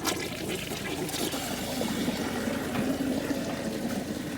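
Dual-flush toilet flushing: a click of the flush button, then rushing water for the rest of the time. The bowl is loaded with a glove and a tank top, and the flush does not clear it: the toilet clogs.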